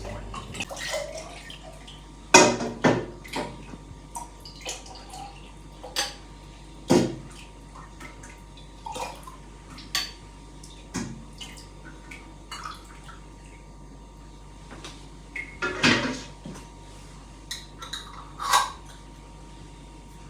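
Dishes and utensils clinking and knocking in a kitchen: scattered irregular knocks, with louder ones about two, seven, sixteen and eighteen seconds in.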